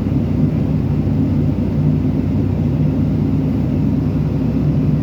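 Boeing 757-300 cabin noise in flight: a steady low rumble of engine and airflow, with a constant low hum.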